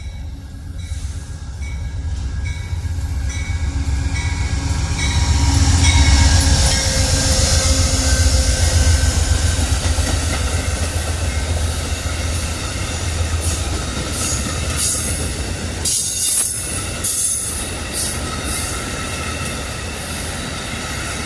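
A train passing close by: a heavy rumble from the locomotive that builds to its loudest about six seconds in, then the cars rolling past with a run of sharp clicks from the wheels over the rail joints.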